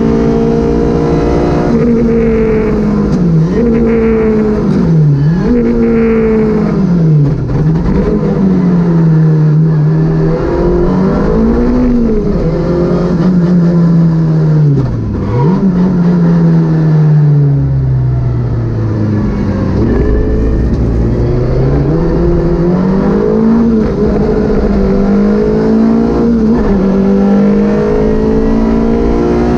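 Citroën Saxo VTS rally car's 1.6-litre four-cylinder engine at full effort on a stage, heard onboard. The revs climb and drop sharply over and over as the driver changes gear and lifts for corners.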